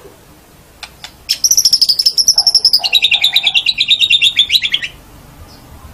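White-rumped shama (murai batu) singing a fast, rattling trill about three and a half seconds long. It starts high and drops to a lower pitch about halfway through, and two short clicks come just before it.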